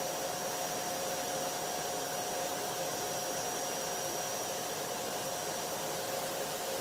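Vacuum cleaner running steadily: an even rush of air with a few steady whining tones on top.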